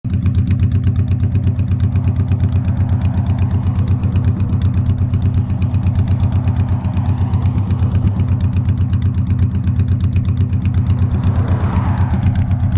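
Honda Shadow Spirit 1100 V-twin motorcycle engine running at a steady, unchanging pitch with an even, pulsing beat.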